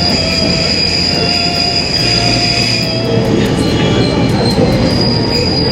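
Wakayama Electric Railway Kishigawa Line train running, with a steady rumble and a high wheel squeal that fades about halfway through and comes back near the end.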